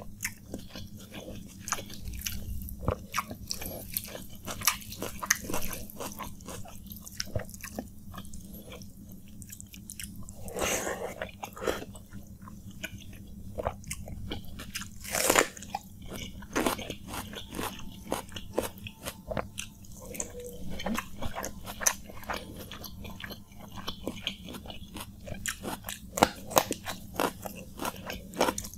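Close-miked eating: wet chewing of panta bhat (rice soaked in water), with many crisp little crunches of raw onion. Two louder crunches come about ten and fifteen seconds in.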